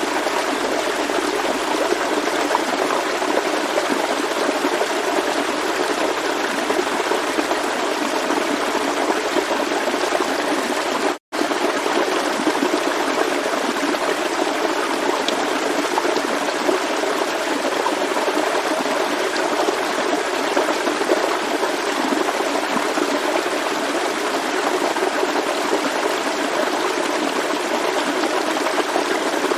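Forest stream flowing steadily, a continuous rushing and trickling of water. About eleven seconds in the sound cuts out completely for a split second, then resumes.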